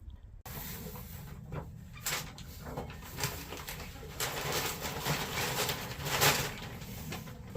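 Poultry making low cooing clucks over irregular rustling of hay, with a louder scratchy rustle about six seconds in.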